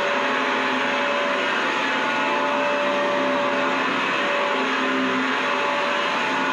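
Vacuum cleaner running steadily: a constant rush of air with its motor's whine held at a few fixed pitches.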